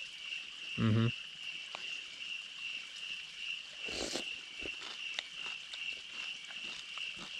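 Crickets chirping in a steady, unbroken chorus, with a short voiced murmur about a second in and a brief rustle or scrape about four seconds in.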